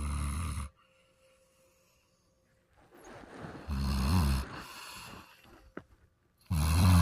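Basset hound snoring in her sleep: deep snores about every three seconds. One ends just after the start, one about four seconds in trails off into a softer breath, and another begins near the end.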